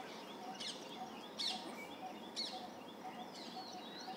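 Birds chirping: short, sharp chirps that sweep quickly downward in pitch, about once a second, over a faint steady background hiss.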